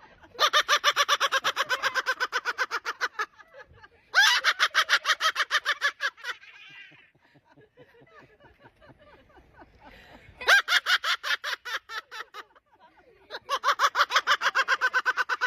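A parrot imitating laughter in four long bouts of rapid "ha-ha-ha" pulses, about nine a second, with short pauses between bouts.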